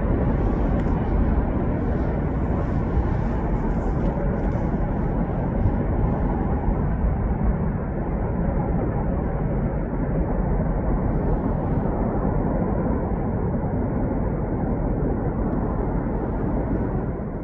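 Freight train rolling away on the rails: a steady rumble of steel wheels on track that dulls a little as the rear of the train recedes.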